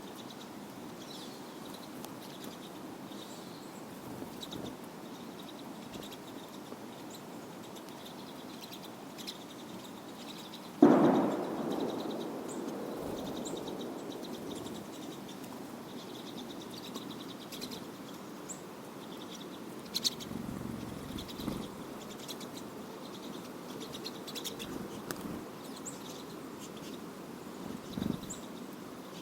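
Faint, scattered high chirps of pine siskins over a steady outdoor background. A single sudden thump about eleven seconds in dies away over a second or so, with a few smaller knocks later.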